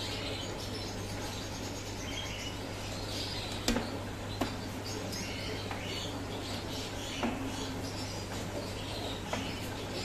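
Small birds chirping and tweeting in short, scattered calls, with a few sharp clicks over a steady low hum.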